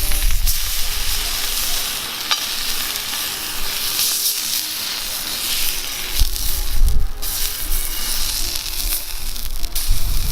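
Steak sizzling steadily in a frying pan over a wood fire, with faint background music.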